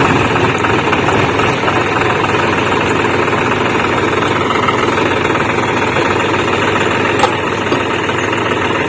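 Tractor diesel engines running steadily, with a single sharp knock about seven seconds in.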